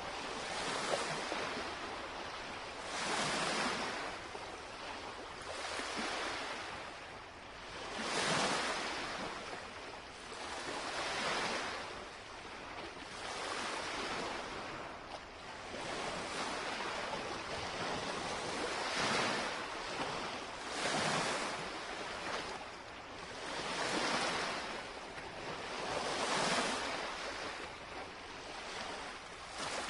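Small lake waves lapping and washing against the shoreline, a fresh wash every two to three seconds over a steady hiss of water.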